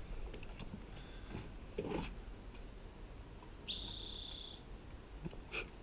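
A bird call about four seconds in: one high note of just under a second that rises at the start, then holds steady. A few soft knocks are heard besides it.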